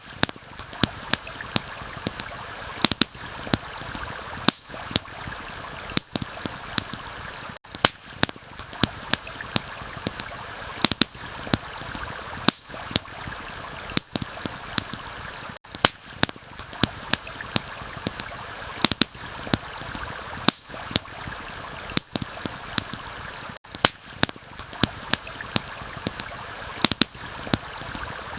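Campfire crackling, with frequent sharp pops and snaps of burning wood, over a steady rush of running water from a stream and rain. The water sound dips out for a moment about every eight seconds.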